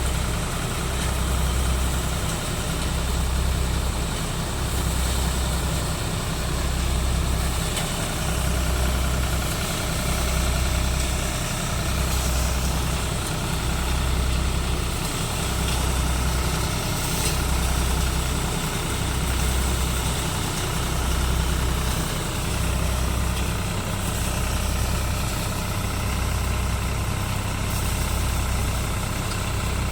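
Deutz-Fahr Agrolux 50 tractor engine running steadily while driving a multicrop thresher threshing mustard. A slow low throb swells and fades about every two seconds.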